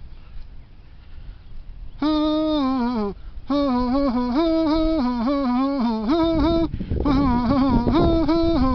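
A man humming a simple tune, holding notes and stepping between a few pitches, with a slide down at the end of the first phrase. It starts about two seconds in, and a low rumble builds beneath it near the end.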